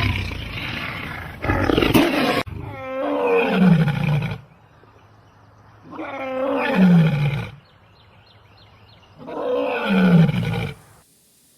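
Lion roaring: a noisy opening roar followed by three drawn-out roars about three seconds apart, each falling in pitch.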